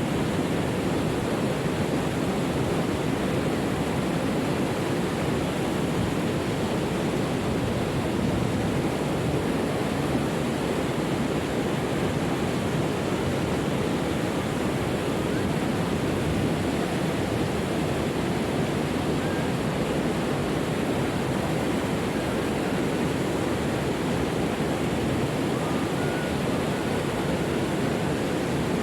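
A waterfall's falling water rushing in a steady, unbroken stream of noise.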